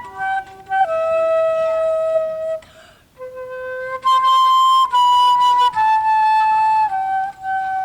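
A single instrument playing a slow solo melody in long held notes, stepping from pitch to pitch with a brief break about three seconds in.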